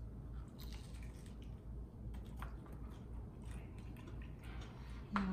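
People biting into and chewing slices of grilled pizza with a crispy crust: faint, scattered crunching and chewing.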